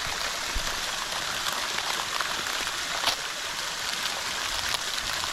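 Steady rushing of a waterfall, an even hiss of flowing water.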